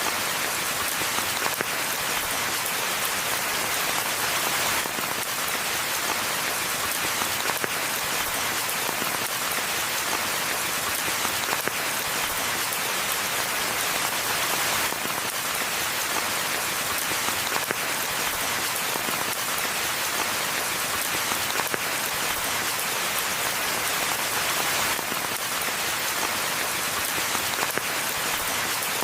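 Steady rain falling: an even hiss throughout, with scattered individual drop hits standing out now and then.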